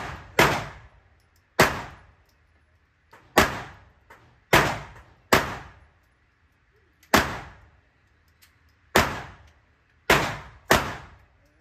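Glock 43X 9mm pistol firing a string of nine shots at uneven intervals, the gaps between them from about half a second to about two seconds, each shot followed by a short echo tail.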